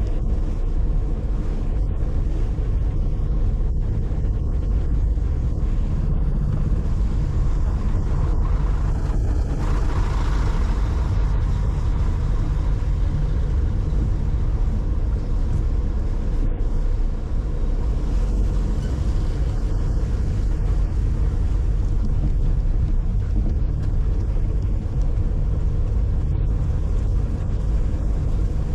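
Steady low rumble of a car being driven: engine and road noise. A brief hiss swells about ten seconds in.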